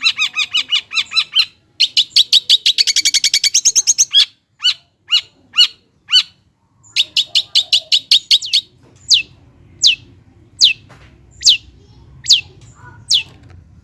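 Long-tailed shrike (cendet) singing a loud run of quick, sharp repeated notes, breaking into a rapid trill about two seconds in. After a short pause come more quick notes, then a slower series of sharp downslurred whistles, a bit under a second apart.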